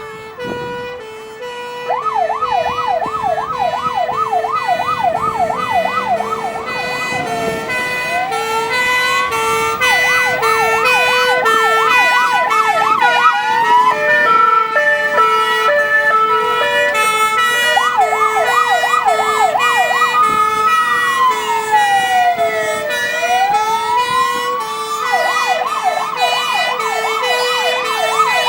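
Emergency vehicle sirens sounding together: a two-tone horn alternating steadily between two notes, with an electronic siren that switches between a fast yelp and a slow rising and falling wail.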